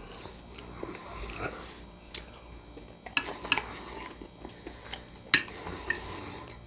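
A person chewing food close to the microphone, with a few sharp clicks scattered through, like a utensil tapping a plate.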